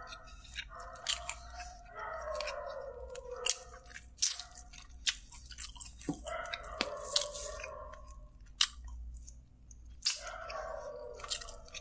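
Close-up eating sounds of a man chewing a sauce-coated chicken drumstick, with many sharp wet mouth clicks and smacks.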